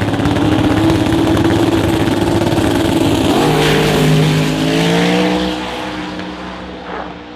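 Drag racing car engine at full throttle accelerating away. About three seconds in the pitch drops at a gear change and then climbs again, and the sound fades over the last couple of seconds.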